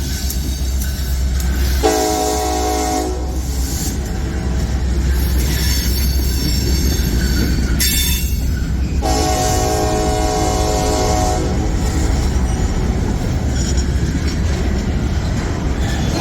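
Freight locomotive horn sounding twice, a short blast about two seconds in and a longer one about nine seconds in, over the steady rumble of a passing freight train, with high-pitched wheel squeal in between.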